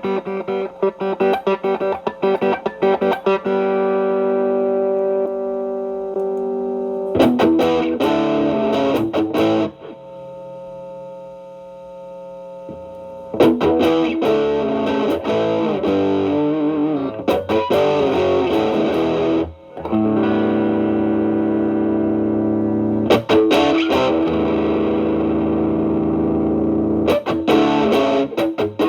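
Stratocaster electric guitar played through a Xotic BB Plus preamp, its channel A stacked into channel B as a gain boost, into a Marshall Valvestate amp. Overdriven chords are left ringing, alternating with quick picked phrases, with a quieter held note near the middle.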